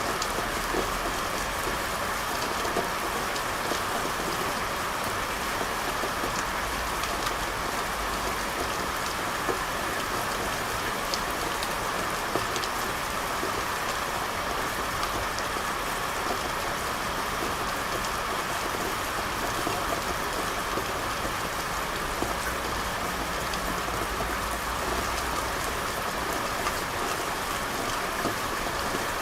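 Steady rain falling: an even hiss with scattered sharper drops.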